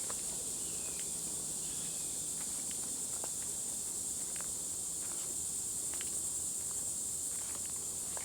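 Steady high-pitched insect chorus droning through the woods, with scattered light footsteps and small snaps of twigs on the trail.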